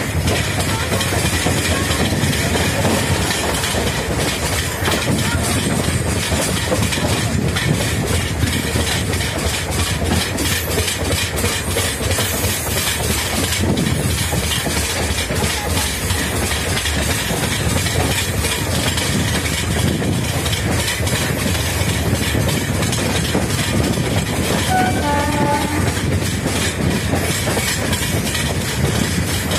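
Passenger coach of an express train running at speed, heard from its open doorway: a steady rumble with the clickety-clack of wheels over rail joints. A short pitched sound, a few stepped tones, comes in near the end.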